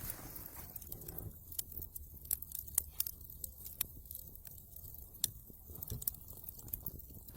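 Wood fire in a fireplace crackling, with irregular sharp pops and snaps over a low rumble.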